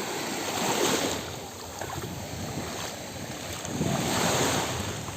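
Sea water washing and splashing, with wind on the microphone; the rush swells up twice, about three seconds apart.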